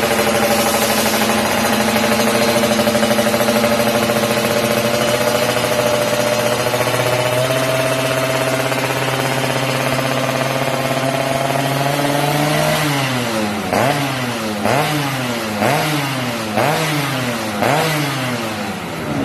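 Yamaha F1ZR two-stroke single through an aftermarket racing exhaust, running at a steady speed and edging slowly up in pitch. About two-thirds of the way through it is blipped six times, about once a second, each rev rising and dropping straight back.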